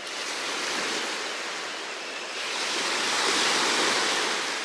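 Black Sea waves breaking and washing on the shore. The wash swells louder about halfway through, then eases near the end.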